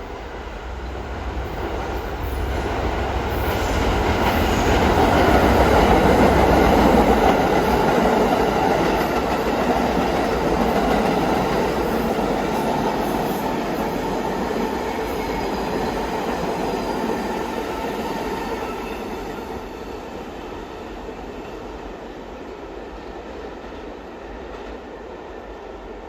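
New York City subway train on the BMT Brighton Line running past with wheel and rail noise. It grows loud, is loudest about six seconds in, then gradually fades.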